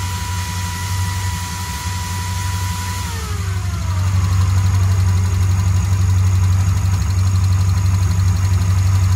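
383 cubic-inch stroker small-block Chevy V8 with Holley Sniper EFI idling steadily. A thin whine over the idle falls in pitch about three seconds in, and the idle grows slightly louder about a second later.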